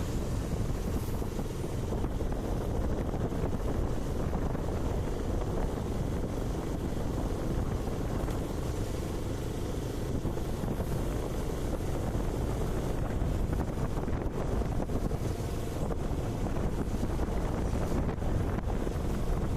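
Steady wind rush over the microphone on a moving motorcycle, with the bike's running and road noise blended underneath.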